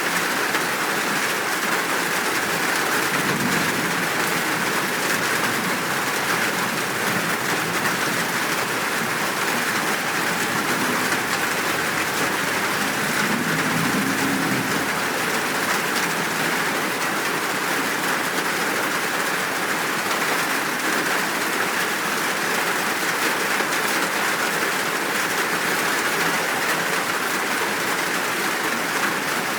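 Steady heavy rain, a full downpour with no pause, with faint low rumbles a few seconds in and again about halfway through.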